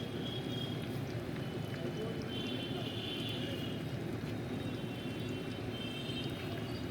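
Steady street background noise, traffic and indistinct voices, at a constant level.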